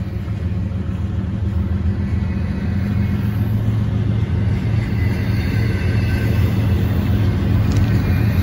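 Double-stack intermodal container cars rolling past: a steady low rumble of steel wheels on rail that grows slightly louder.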